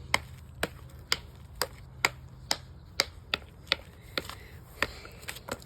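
Hammerstone striking a rock in short, sharp clicks, about two blows a second, knapping an arrowhead.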